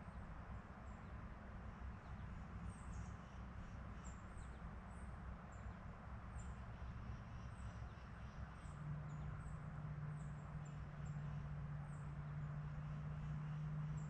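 Small birds giving many short, high, thin call notes, one after another, over a low background rumble. A steady low hum sets in a little past halfway and carries on.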